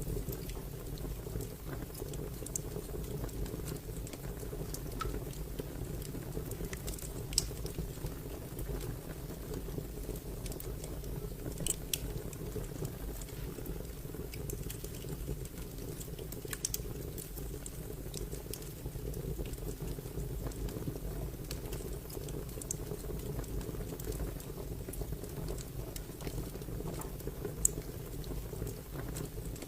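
Wood fire crackling: a steady low rumble with irregular sharp pops and snaps, two of them louder about 7 and 28 seconds in.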